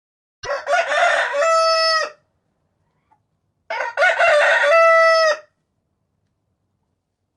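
Rooster crowing twice, each crow about two seconds long and ending in a held note.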